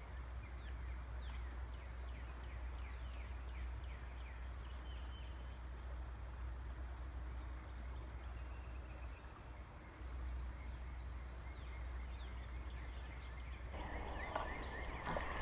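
Faint outdoor ambience by a creek: a steady low rumble with scattered faint, short, high chirps, and a soft rushing noise that comes up near the end.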